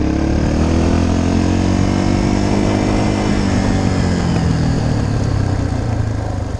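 Dirt bike engine running loud, its pitch slowly falling over the first few seconds as the revs ease off, then holding steady.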